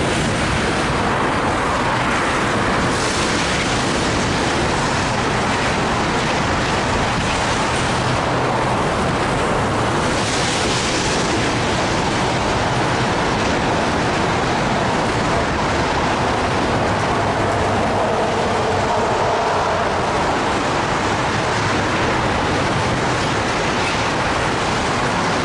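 Tank cars of a freight oil train rolling past, a steady rumble and clatter of steel wheels on rail.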